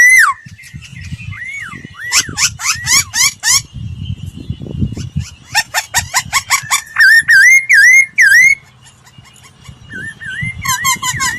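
Laughingthrush singing loud, clear whistled phrases: repeated arching notes and quick runs of sweeping notes. It pauses about two-thirds of the way through, then starts again more softly near the end.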